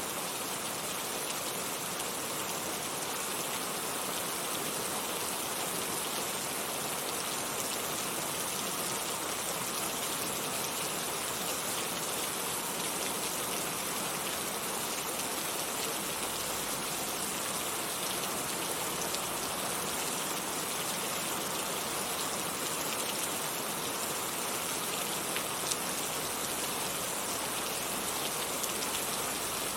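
Heavy rain falling steadily, a dense even hiss of drops on surfaces with a few sharper drop ticks.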